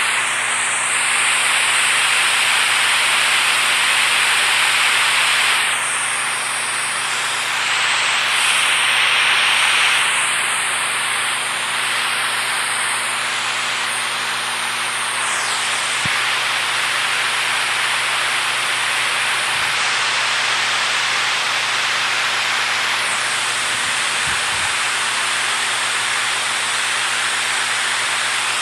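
Steady rushing water, a loud even hiss with little low end, its tone shifting slightly a few times.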